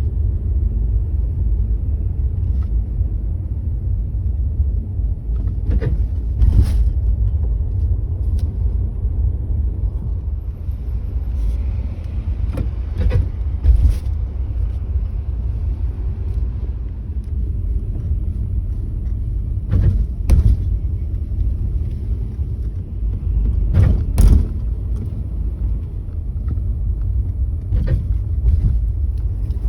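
Nissan Juke driving over speed bumps, giving several short creaks from the front suspension, some in close pairs, over the car's steady low rumble. The creak appeared after an impact to the front driver's wheel and a replacement of that wheel and strut.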